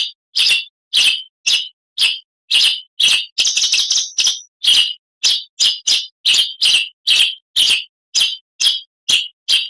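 Oriental magpie-robin (kacer) singing: a steady series of loud, short, high notes, about two or three a second, with a quicker run of notes about three and a half seconds in.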